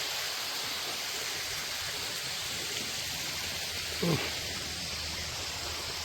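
Steady hiss of a small waterfall splashing into a rock pool, its flow low, with one short pitched sound breaking in about four seconds in.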